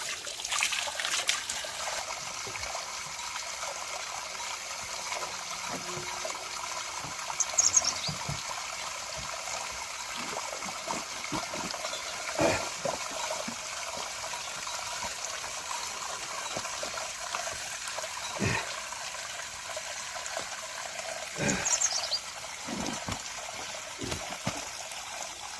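Steady trickle of running water, with a few scattered soft knocks and clicks.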